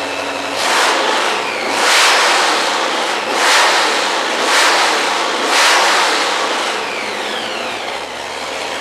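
Supercharged 572 cubic-inch all-aluminum Hemi V8 with a 10-71 blower and dual carburetors, idling and then revved in five quick blips about a second apart. After each blip the pitch falls back as the revs drop, and the engine settles back to a steady idle near the end.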